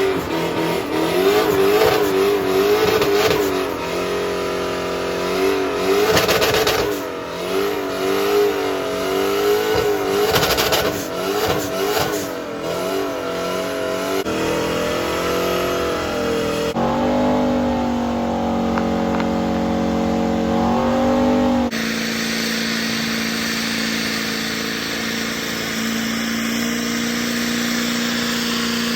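Truck engine revving hard, its pitch swinging up and down as the throttle is blipped, then held at steady high revs for the last several seconds. The sound changes abruptly in a few places where the footage is cut.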